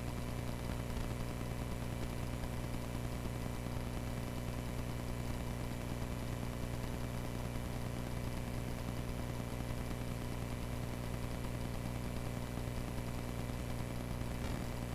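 Cessna 140A's air-cooled flat-four engine running steadily at idle or low taxi power, a low, even drone.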